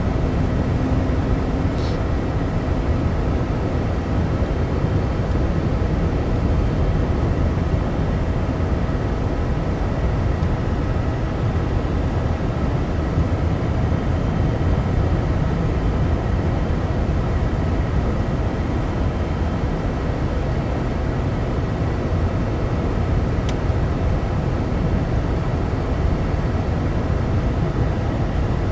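Steady engine and tyre noise of a car driving on a snow-covered road, heard from inside the cabin, with a deep rumble and no change in pace.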